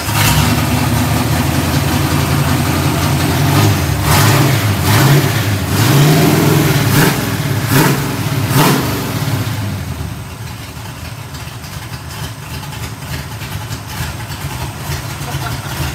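A Mustang's carbureted V8 running, revved by hand at the carburetor in a string of quick throttle blips. It then settles to a steady, quieter idle for the last third.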